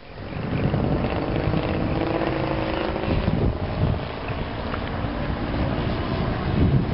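Gasoline engine of a giant-scale RC aerobatic plane running steadily, with wind buffeting the microphone.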